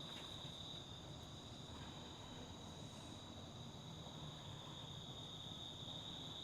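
Faint, steady chorus of insects, a constant high-pitched trill with no break.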